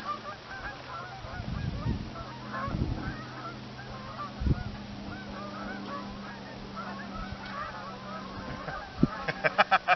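A flock of geese honking, with many short calls throughout and a quick run of louder honks near the end. A few dull thumps come in the first half.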